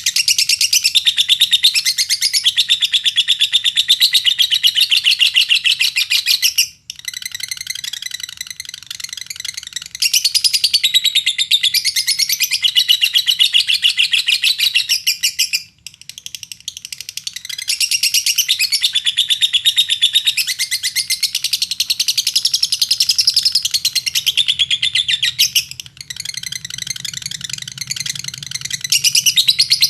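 Lovebird singing a long, rapid chattering trill, the 'ngekek' song kept birds are trained on. It breaks off briefly three times and picks up again, sometimes softer and sometimes louder.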